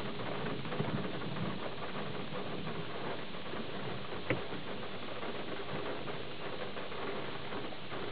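Thunderstorm rain pattering steadily, a dense hiss of small drop ticks, with one sharper tap about four seconds in.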